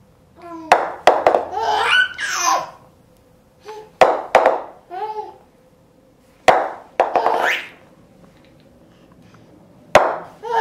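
A baby making noises and laughing at them, in four bouts with short quiet pauses between.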